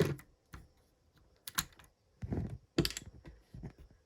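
Hard plastic Lego pieces clicking and knocking as the truck model is handled and its removable cap is worked, in about five or six separate clicks at uneven spacing.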